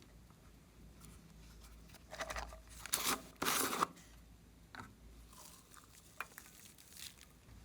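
Hands working glossy slime: short crackling, tearing bursts as it is stretched and squished, loudest about two to four seconds in, followed by a few small sticky pops.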